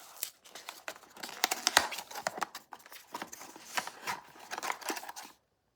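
Blind-box packaging torn and crinkled open by hand: an irregular run of crinkles, tears and small clicks, busiest a second and a half to two and a half seconds in, stopping shortly before the end.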